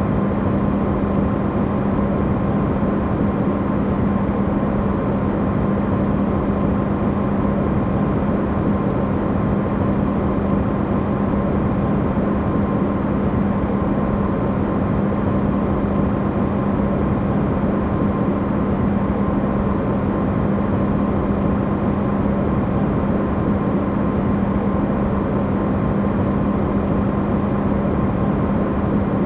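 Electrolux refrigerator running, recorded amplified: a steady hum over an even rushing noise, unchanging throughout, used as white noise.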